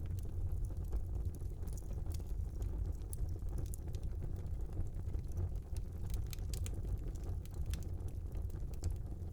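Wood fire burning in a small fireplace: a steady low roar of the flames with frequent small, sharp crackles and pops of the burning wood.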